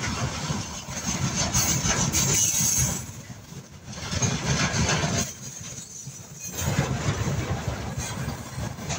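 Freight train wagons, tank cars and then flat cars, rolling past close by: a continuous rumble and rattle of steel wheels on the rails that dips quieter twice in the middle before picking up again.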